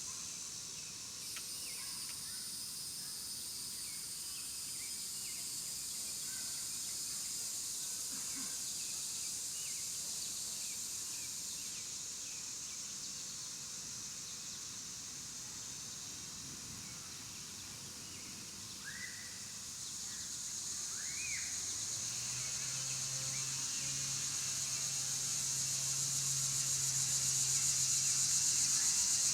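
Outdoor ambience: a steady high-pitched drone or hiss under scattered short bird chirps. A low steady hum, like a distant engine, comes in about two-thirds of the way through and grows louder.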